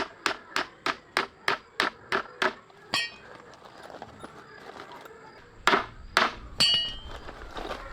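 Food being chopped with a knife on a cutting board: quick, even strokes about three a second, stopping about two and a half seconds in. Then a single metallic clink, and near the end three louder knocks, the last one ringing like metal.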